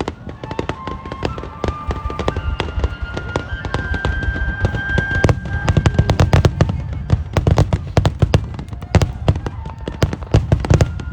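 Fireworks display: a rapid, dense run of bangs and crackles from bursting shells over a deep rumble, growing denser and louder about halfway through.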